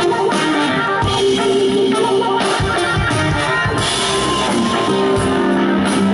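Live rock band playing with electric guitar and drum kit, no vocals.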